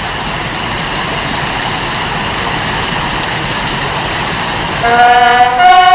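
Steady rushing noise of a train running, then a train horn starts blowing loud and steady about five seconds in.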